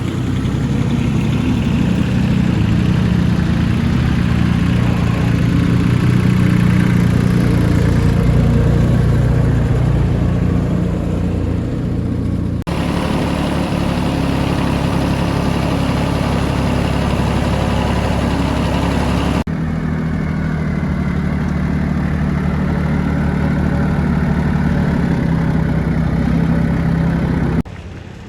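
Mini tractor's diesel engine running steadily, with the sound changing abruptly about 13 and 19 seconds in and dropping suddenly near the end.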